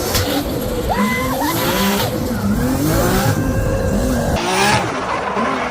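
Drift car's engine revving hard, its pitch climbing and falling again and again, with tyres squealing and skidding as it slides.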